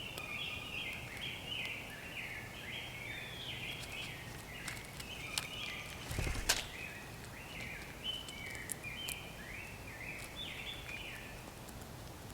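A bird singing a long run of short, quick notes, about two or three a second, with no break. A few sharp clicks and a low thump come about six seconds in.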